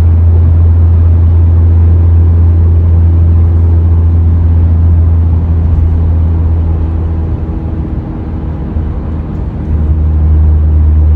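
Acura Integra's 1.5-litre turbocharged four-cylinder with an MBRP aftermarket exhaust, heard from inside the cabin as a steady low drone while driving. Near the end the sound eases off for about two seconds, then picks up again.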